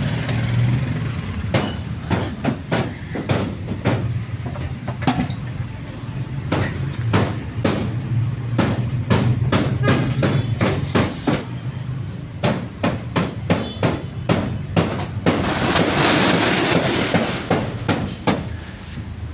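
Many sharp knocks, irregular and at times several a second, over a steady low hum, then a loud hiss for about two seconds near the end.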